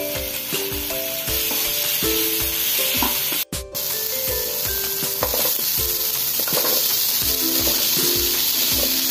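Onions, tomatoes and dried fish sizzling as they fry in oil in a wok, while cubes of bottle gourd are tipped in. Background music with a steady beat plays over the frying.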